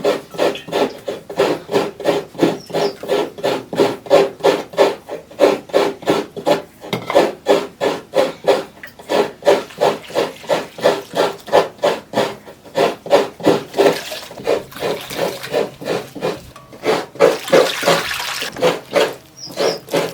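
Fresh coconut being grated by hand on a coconut scraper: rhythmic rasping strokes, about three a second, with a few short pauses.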